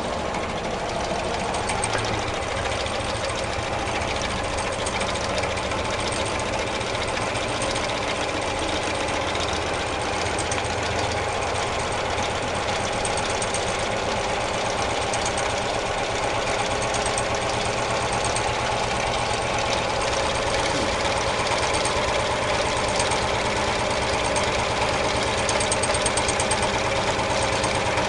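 Home-made four-cylinder double-acting alpha Stirling engine running steadily with a rapid mechanical clatter, getting slightly louder in the last few seconds.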